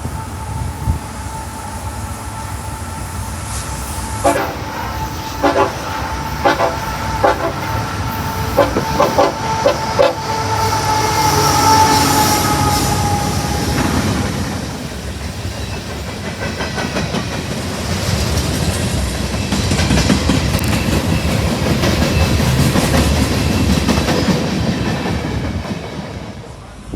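A train going by: a held tone with a run of short horn blasts in the first half, then the rumble and clatter of the cars rolling past, fading near the end.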